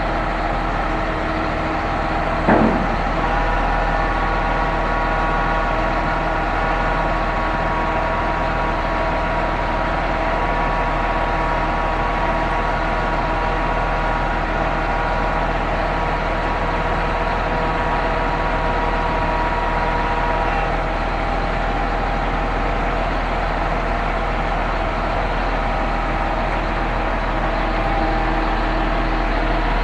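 Truck-mounted concrete pump running steadily on its diesel engine, with a single knock about two and a half seconds in and a steady whining tone that stops about twenty seconds in.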